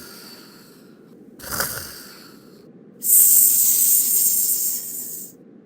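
A person hissing through their teeth like a snake, a loud, steady hiss lasting about two seconds, after a shorter breathy puff about a second and a half in.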